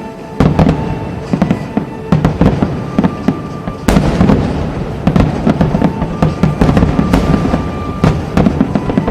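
A rapid, continuous barrage of fireworks bursting, with dense cracks and booms and a loud burst about four seconds in. Music plays underneath.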